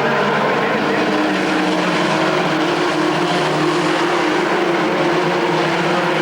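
A pack of race trucks running laps on a short oval, several engines droning at once at steady speed.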